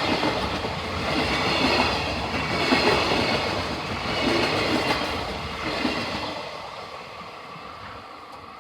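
Train passing over a level crossing: wheels on the rails with loudness swells about every second, then fading away over the last few seconds.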